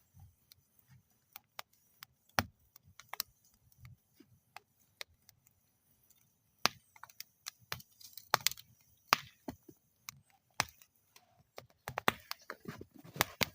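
Wood fire burning in a metal fire bowl, crackling with sharp, irregular pops. The pops are sparse at first, pause briefly about halfway, then come thicker towards the end.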